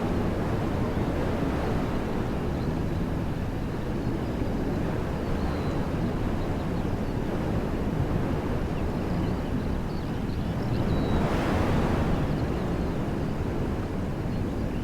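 Wind blowing through trees: a steady rushing with low rumble from wind buffeting the microphone, swelling into a stronger gust about eleven seconds in. Faint high bird chirps now and then.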